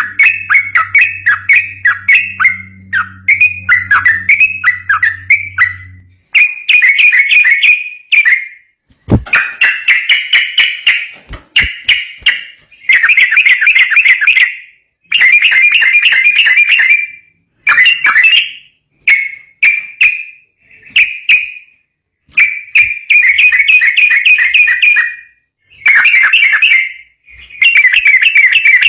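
Yellow-vented bulbul (cucak trucuk) singing in rapid, chattering phrases of quick repeated notes, each phrase lasting a second or two with short pauses between; the bird is singing energetically and continuously. A faint low hum sits under the first few seconds.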